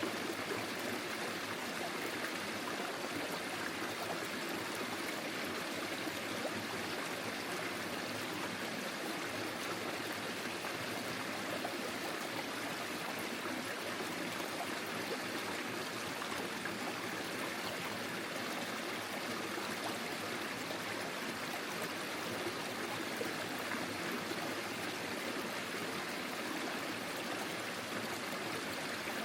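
Forest stream flowing over stones, a steady rushing and trickling of water.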